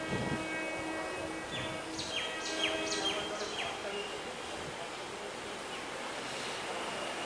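Electric multiple unit local train approaching along the track, heard as a steady running noise, with a steady multi-tone hum that fades out over the first three seconds. A bird calls a quick run of about six short falling whistled notes about two to three and a half seconds in.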